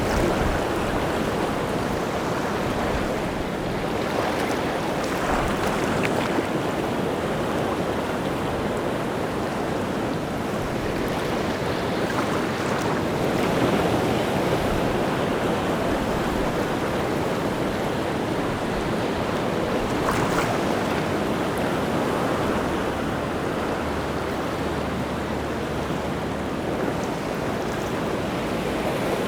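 Rough sea surf: waves breaking and washing onto the shore in a continuous rush, swelling louder a few times as bigger waves break.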